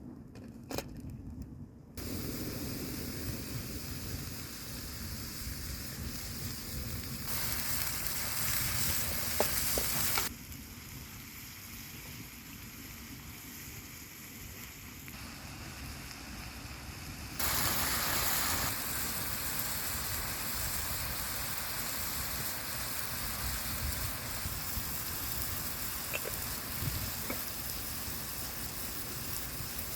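Food sizzling on a hot saj over a wood fire, a steady hiss that jumps between louder and quieter stretches several times.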